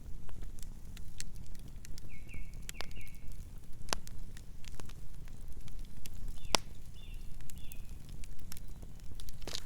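Campfire burning: wood crackling with scattered sharp pops over a low rumble of the flames. A few short high squeaks come in about two seconds in and again about seven seconds in.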